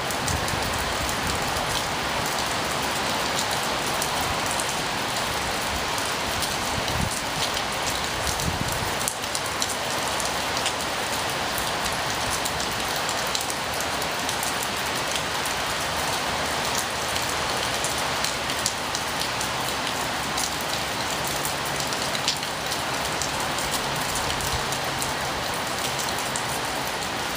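Heavy rain pouring steadily in a strong, gusty windstorm: a dense, even hiss of rainfall with fine drop patter and a few low buffets.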